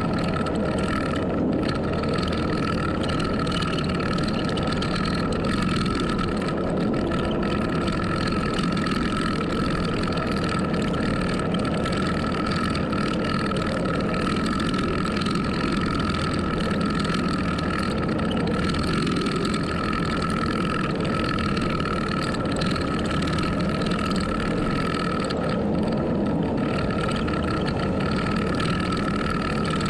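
Heavy earthmoving machine running steadily: an even engine rumble with a steady high whine over it and no revving.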